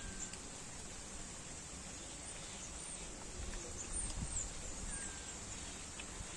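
Outdoor ambience: faint, short, high chirps that glide down in pitch, several of them bunched a few seconds in, over a steady low rumbling noise that swells briefly near the middle.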